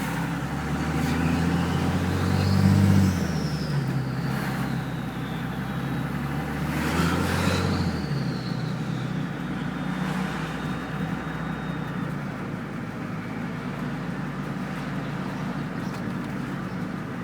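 24-valve Cummins diesel with a VP44 injection pump and a 6-inch exhaust, revved twice and dropping back to idle. Each rev brings a high turbo whistle that climbs and then winds down slowly over several seconds.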